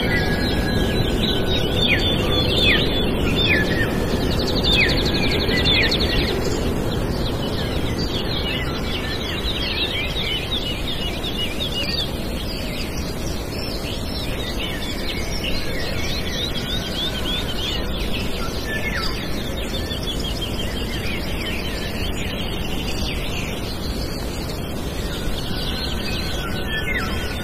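Birds chirping and calling on and off, with a fast trill about four to six seconds in, over a steady low background rumble.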